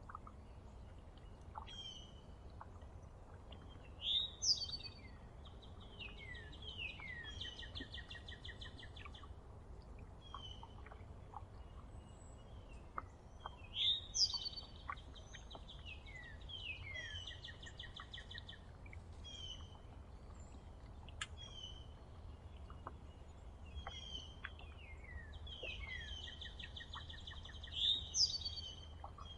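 A songbird sings the same song three times, about ten seconds apart: a rising sweep, quick trills and falling notes, ending in a lower buzzy trill. Short chirps from other birds come in between, over a steady low background rumble.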